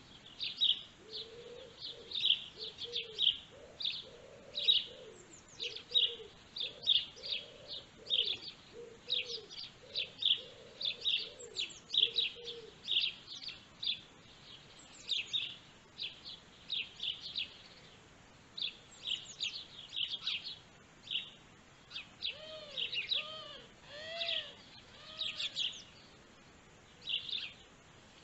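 Small birds chirping over and over in short, high notes. Lower, short rising-and-falling calls come in series in the first half and again near the end.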